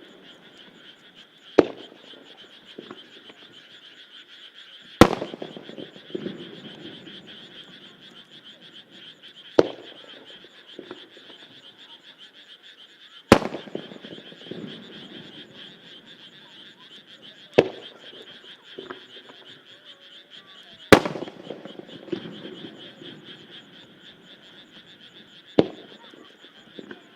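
Aerial firework shells bursting one at a time, seven sharp booms about every four seconds, each followed by a rumbling echo. A steady chorus of croaking frogs runs underneath.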